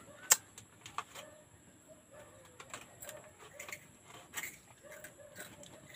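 Faint cooing of a bird, in short low calls scattered throughout, with a few sharp clicks; the loudest click comes just after the start.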